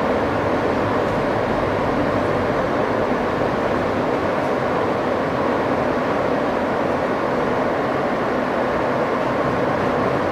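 Inside an R160 subway car running between stations: steady wheel and track noise with motor and car-body sound, unbroken throughout.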